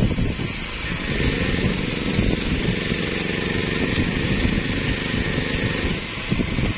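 An engine running steadily, with the even hissing crackle of electric arc welding on a steel excavator bucket over it.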